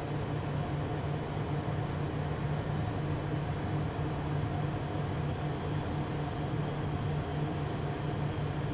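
Steady cockpit noise of a Beechcraft Premier twin-turbofan jet on final approach: an even rush of airflow over a constant low engine hum.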